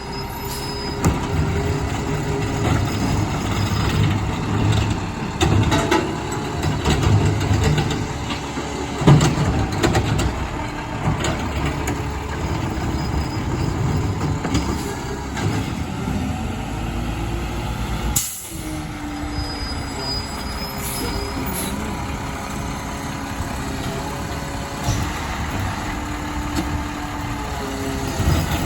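Garbage truck's diesel engine running and rising and falling in pitch as the truck works, with a sharp air-brake hiss about nine seconds in.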